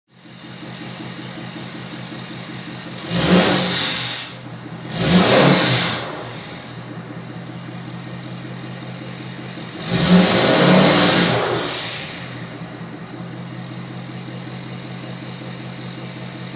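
Ford 6.7 Power Stroke V8 turbo-diesel idling through a 5-inch straight-pipe exhaust, blipped up three times: two short revs a few seconds in and a longer rev of about two seconds near the middle, each dropping back to idle.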